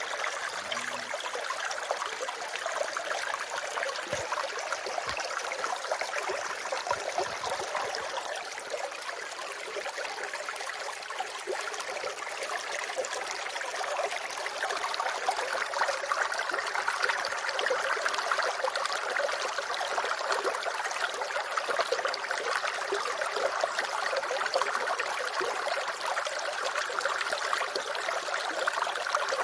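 Water running steadily with a fine trickling texture, like a small stream. It gets a little louder about halfway through.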